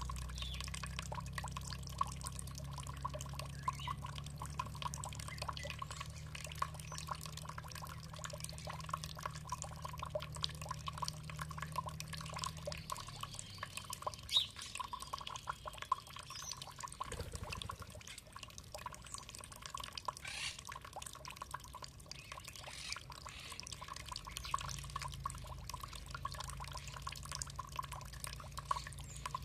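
Water dripping and splashing in quick, irregular drops over a low steady hum. The hum drops away about halfway through and comes back near the end.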